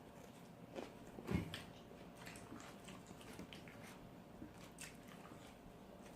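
Quiet eating sounds: close-up chewing and biting of food, with scattered small clicks and one soft knock about a second and a half in.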